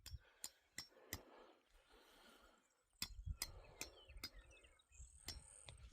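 Near silence, broken by a few faint, sharp clicks and, from about three seconds in, a faint low rumble.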